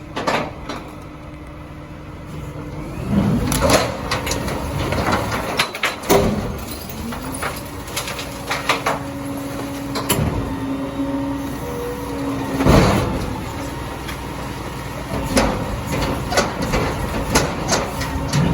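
Heil Dura-Pack 5000 rear-loader recycling truck at work: its engine and hydraulics run with a steady hum, broken by repeated sharp clanks and bangs of metal and recyclables.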